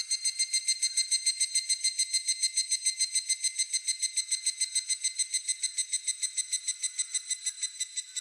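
Higurashi (evening cicada) calling: a long, ringing, rapidly pulsing trill of roughly eight pulses a second, which stops right at the end.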